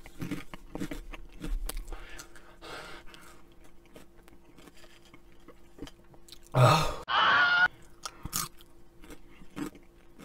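Close-miked chewing and crunching of Flamin' Hot Cheetos, dense at first and then sparser. About two-thirds of the way in there is a short loud burst of voice and breath.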